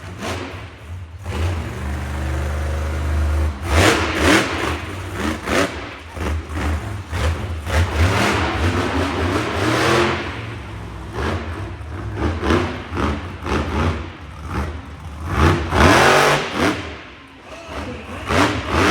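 Monster truck engine revving hard and running under load, rising and falling, with several sudden louder surges, the loudest near the end.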